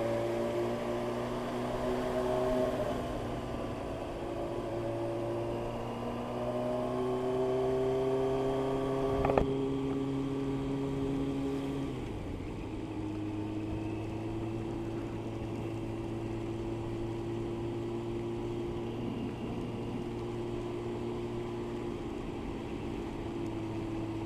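Motorcycle engine, likely a Yamaha Thundercat 600 inline-four, running at motorway speed under a steady rush of wind, as heard from the rider's seat. Its note climbs slowly for the first nine seconds or so, a single click comes just after, the pitch dips slightly about twelve seconds in, and the engine then holds a steady cruise.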